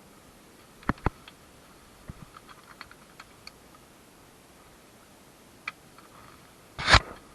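Scattered sharp clicks and knocks of things being handled: two close knocks about a second in, faint ticks after them, and one louder thump with a rustle near the end.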